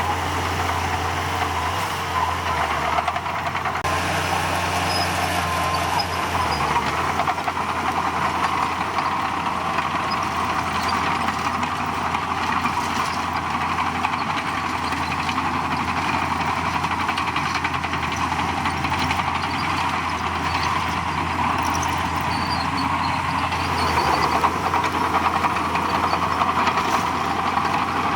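Diesel engine of heavy earthmoving equipment running steadily, its note shifting slightly about four seconds in and again near the end.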